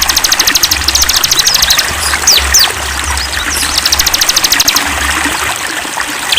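Songbirds singing over a flowing stream: fast high trills of rapidly repeated notes, twice, with a few quick down-slurred whistles between them.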